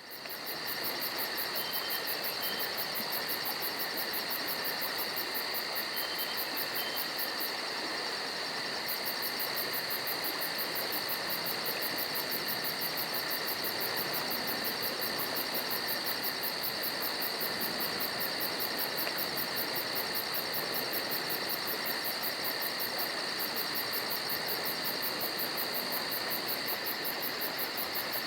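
Steady chorus of crickets and other insects: shrill, unbroken trilling with a very fast, even pulse high up that pauses briefly twice.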